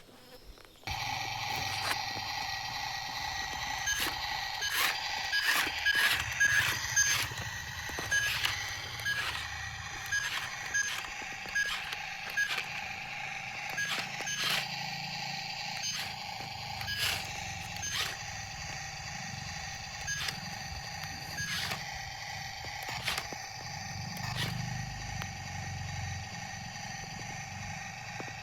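Small electric motor of a radio-controlled toy vehicle starting about a second in and whining steadily, with frequent sharp clicks and knocks from its plastic gearing and parts.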